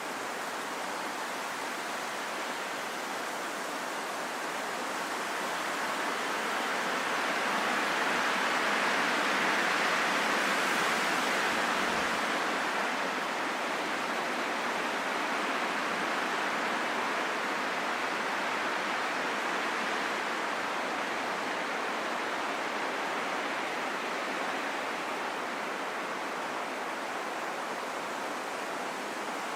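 Steady rain falling in a forest, a dense, even hiss that swells a little around ten seconds in and then eases back.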